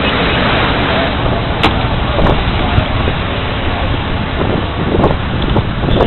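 Fire truck on the move: steady engine and road rumble with wind buffeting the microphone, and a few sharp clicks.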